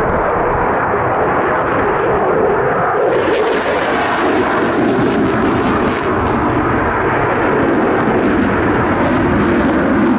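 Jet noise from an RAF Eurofighter Typhoon's twin EJ200 turbofans at display power, loud and continuous. About three seconds in, the sound gains more high hiss.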